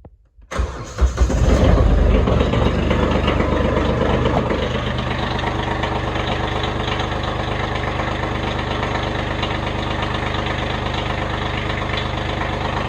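Kubota B2601 compact tractor's three-cylinder diesel engine starting on a cold morning about half a second in, running heavier for a few seconds, then settling into a steady idle.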